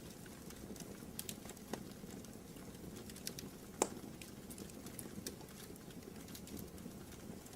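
Wood fire burning in a fireplace: a steady low rush with irregular small crackles and pops, one sharper pop about midway.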